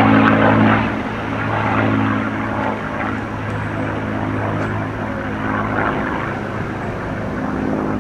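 P-51 Mustang fighter's V12 piston engine and propeller running at a steady pitch overhead, loudest in the first second and then a little fainter.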